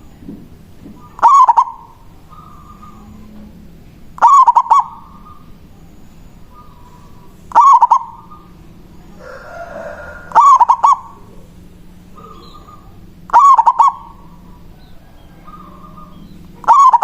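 Zebra dove (perkutut) cooing its song: a loud, rolling phrase of several quick notes, repeated about every three seconds, six times, with fainter coos in between.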